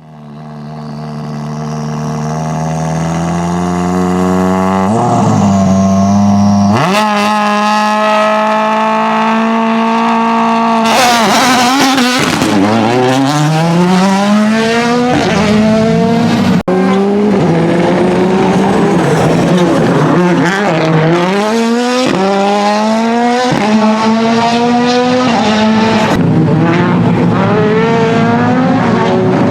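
Ford Fiesta WRC Plus rally car's 1.6-litre turbocharged four-cylinder engine, fading in at a steady pitch that steps up twice, then a burst of rough noise about eleven seconds in, followed by repeated rising revs broken by gear changes as the car accelerates hard.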